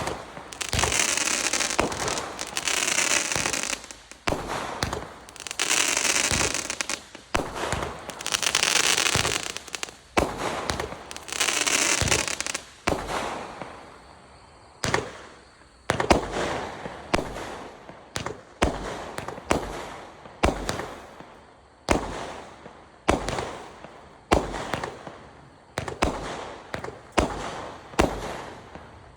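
Compound consumer fireworks cake firing. For about the first half, long bursts of crackling hiss follow one another. In the second half, single shots go off about once a second, each followed by a fading crackle.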